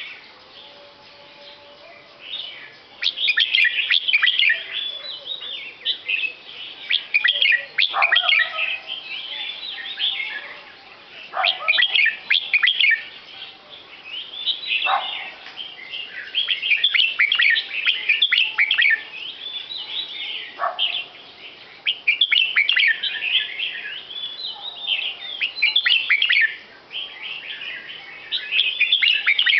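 A songbird singing in repeated bursts of rapid, high chirps with brief pauses between them, and a few lower single notes now and then.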